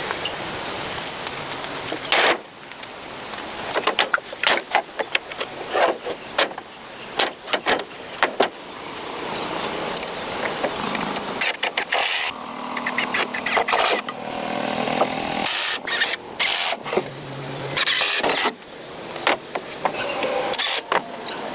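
Building work on timber: irregular sharp knocks and impacts, many in quick succession, with a few stretches of steady noise lasting a second or two.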